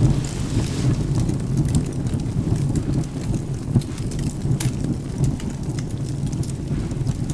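Wood fire crackling with sharp irregular pops over a steady wash of rain and a continuous low thunder rumble.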